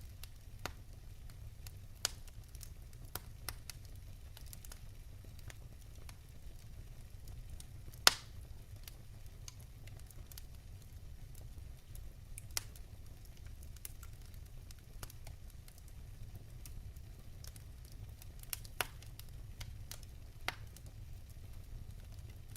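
Fire in a fireplace crackling: irregular sharp pops and snaps over a steady low rumble, with one loud pop about eight seconds in.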